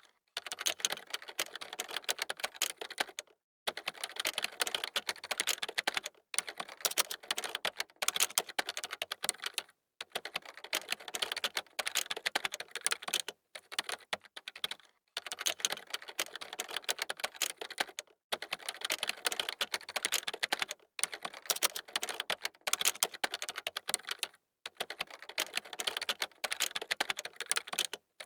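Computer keyboard typing: fast runs of key clicks in bursts of a few seconds, broken by short pauses.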